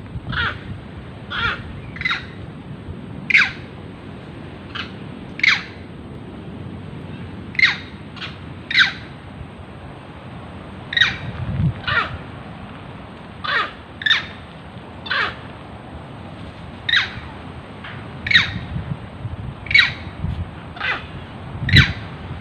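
An animal's short, harsh calls repeated about once a second, each a brief downward-sweeping cry.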